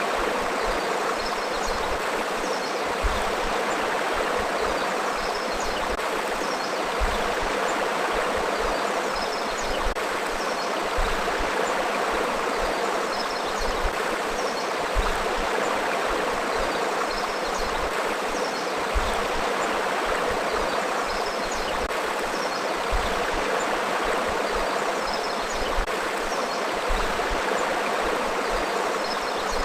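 A flowing forest river: a steady rush of running water.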